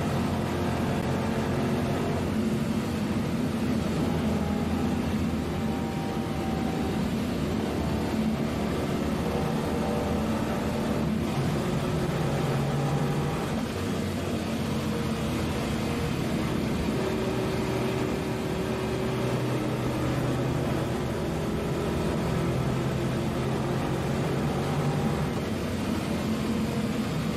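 Holden Torana SL/R 5000 race car's V8 engine running under load at speed, heard from inside its stripped, roll-caged cabin. The revs rise and fall gently and the sound stays steady and loud throughout.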